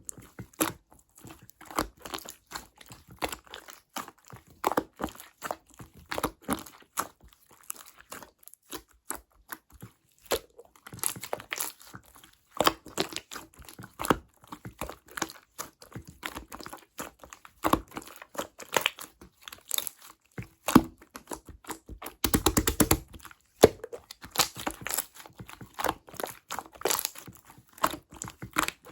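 Clear pearl slime being squished and stretched by hand, giving irregular sticky pops and crackles, with a denser run of squishing about three quarters of the way through.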